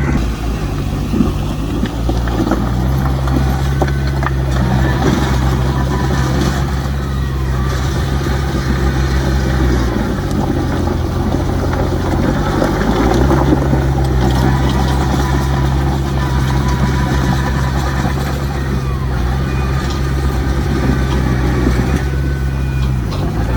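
Heavy diesel earthmoving machinery running hard, the engine's steady drone over a rough rumble. About ten seconds in the engine note drops and changes for a few seconds, then picks back up.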